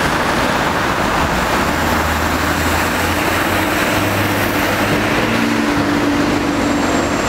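Street traffic: a steady wash of road noise with the low hum of vehicle engines running close by.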